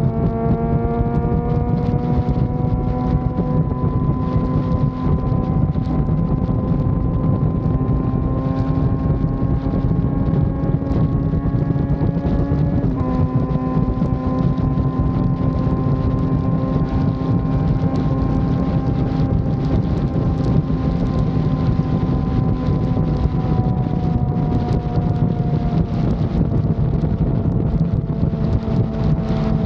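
Yamaha FZ6 Fazer 600 inline-four motorcycle engine running steadily at cruising speed, its pitch creeping slowly up, dipping slightly about halfway through, then easing down near the end. Wind buffets the microphone.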